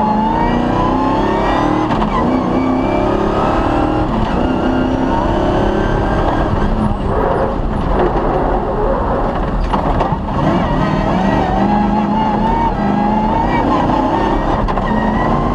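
Off-road rally car's engine pulling hard, its pitch climbing and then dropping back several times as it shifts through the gears, with a few short knocks from the car near the middle.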